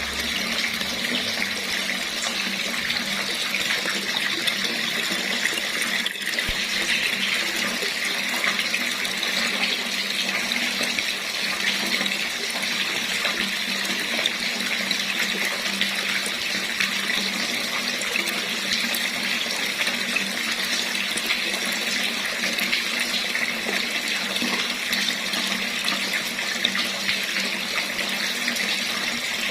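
Water running steadily from a tap, an even splashing rush.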